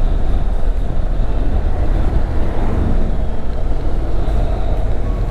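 Motorcycle running at road speed, its engine under a steady rush of wind and road noise.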